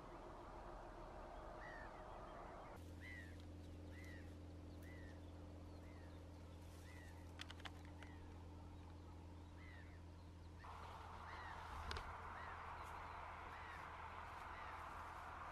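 A bird calling over and over, faint: one short note about every two-thirds of a second, with a couple of light clicks about halfway through.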